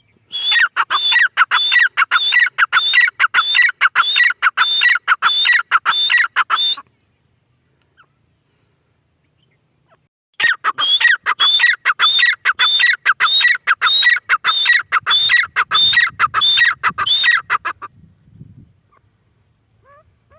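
Grey francolin calling in two long bouts of rapid, repeated sharp notes, about three a second. Each note drops quickly in pitch. There is a pause of a few seconds between the bouts.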